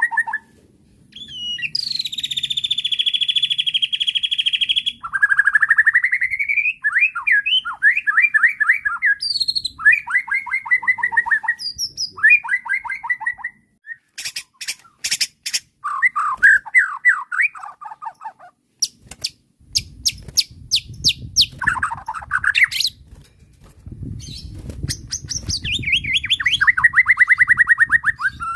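White-rumped shama singing a long, varied song: quick trills, a buzzy held note, and bursts of sharp clicking notes in the middle, with a low rumble underneath in the second half.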